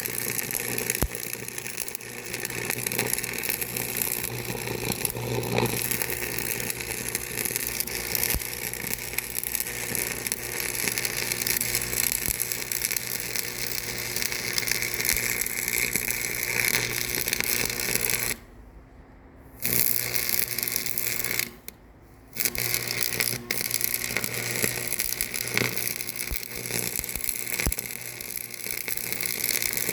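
Loud, steady machinery noise, dropping away abruptly twice for a second or so about two-thirds of the way through.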